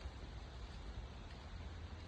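River water rushing steadily, heard as an even hiss with a fluctuating low rumble beneath it.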